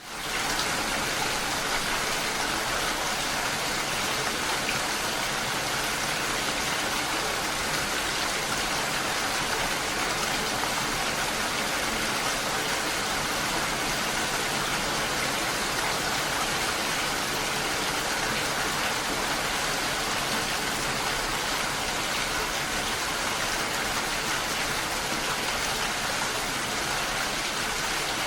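Steady rain falling, a dense, even hiss that comes up quickly out of silence at the start and then holds unchanged throughout.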